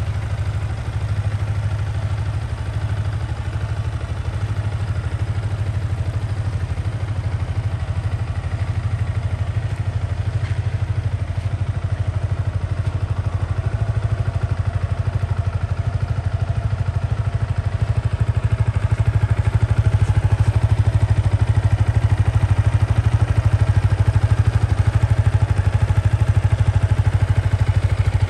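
Yamaha XSR125's single-cylinder four-stroke engine idling steadily, getting louder over the last third or so.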